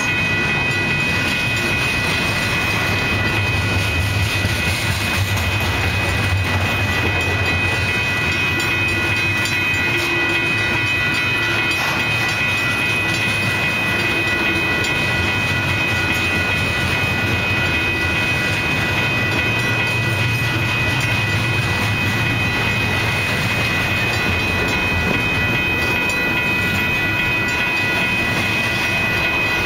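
Double-stack intermodal well cars of a freight train rolling past close by: a steady rumble of steel wheels on the rails, with a steady high-pitched whine over it.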